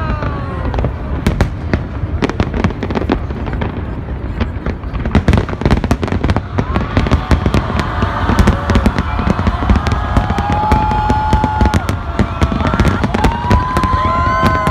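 Fireworks display: a dense, continuous stream of bangs and crackles, with onlookers' voices calling out over it from about halfway through.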